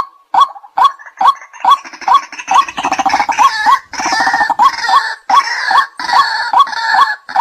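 White-breasted waterhen calling: a steady string of short "kwak" notes, about two and a half a second. From about a second and a half in until near the end, a louder, harsher chattering chorus overlaps the notes.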